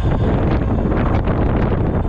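Strong gusty wind of an approaching typhoon buffeting the microphone: a loud, continuous low rumble with quick flutters.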